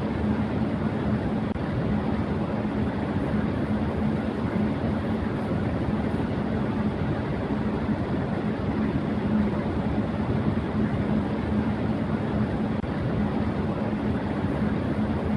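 Electric fan running at high speed: a steady rush of air with a constant hum underneath, unchanging throughout.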